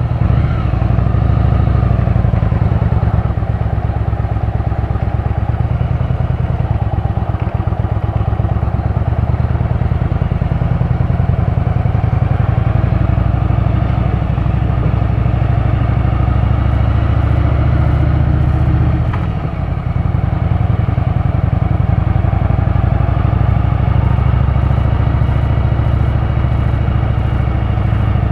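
Motorcycle engine running steadily under way, with a brief drop in engine sound about two-thirds of the way through.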